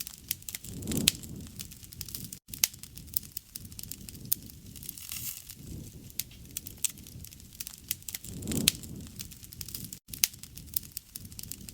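Wood fire burning: frequent sharp crackles and pops of burning wood over a low rumble of flames, with a swelling whoosh about a second in and again later on.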